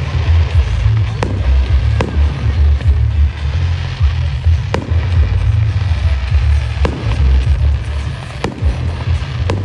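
Fireworks going off: about six sharp bangs at uneven intervals over a crackling hiss, with loud music and heavy bass underneath.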